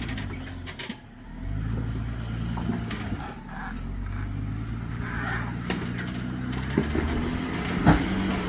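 Off-road vehicle's engine pulling at low revs as it crawls over a rock ledge, the note dropping away about a second in and then picking up and holding steady. A sharp knock comes near the end.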